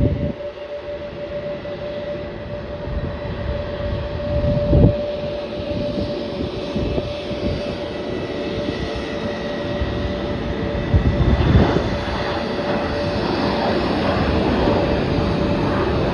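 Jet airliner's engines running: a steady whine over a continuous rumble, growing a little louder in the second half, with a couple of low thumps along the way.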